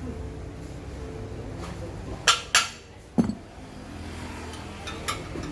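Three sharp clinks of hard objects, close together near the middle, over a low steady hum.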